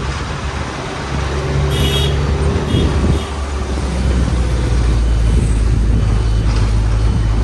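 Bus engine running steadily, getting louder about four seconds in.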